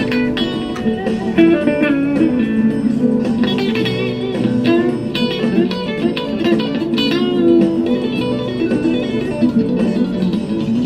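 Electric guitar playing an instrumental melody of single plucked notes, some of them bent, over sustained low accompaniment.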